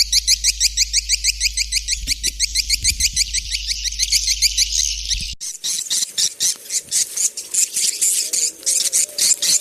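Recorded swiftlet calls: a fast, even train of high chirps, about six a second, that cuts off abruptly about five seconds in and is replaced by a different take of sharper, noisier chirping. This is a swiftlet calling-sound track, the kind played from bird-house speakers to lure white-nest swiftlets.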